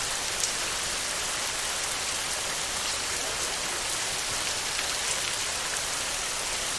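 Heavy rain falling steadily on a tin roof: a dense, even hiss with faint scattered drop ticks.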